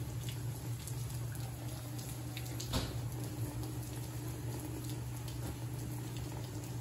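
Rain falling outside, an even watery hiss with faint scattered patter, over a steady low hum; one light tap nearly three seconds in.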